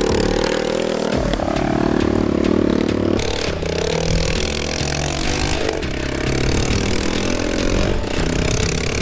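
Dirt bike engine running, its pitch rising and falling several times as it is revved and ridden, with some scraping and clattering.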